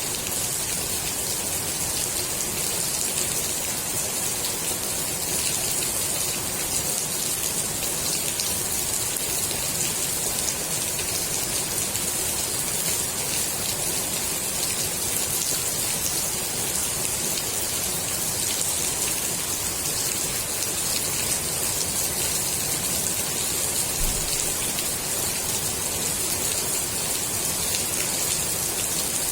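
Steady rain falling on the water of a swimming pool: a constant, even hiss of countless drops hitting the surface.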